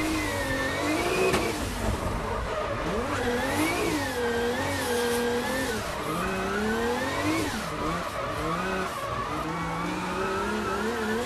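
Turbocharged Nissan SR20 four-cylinder engines of drift cars sliding in tandem, revs rising and falling every second or so as the drivers work the throttle, over the noise of sliding tyres.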